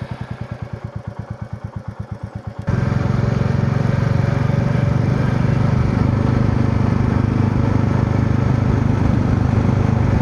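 Royal Enfield Meteor 350's single-cylinder engine, just started, idling with an even thump. About a third of the way in, the sound jumps suddenly louder to a steady, fuller engine run with added hiss, as when moving off or riding.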